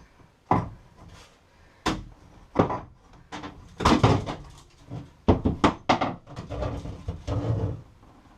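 Irregular wooden knocks and thuds as rotten plywood is pried and pulled off a sailboat's cabin side wall, with a longer rough rubbing sound near the end.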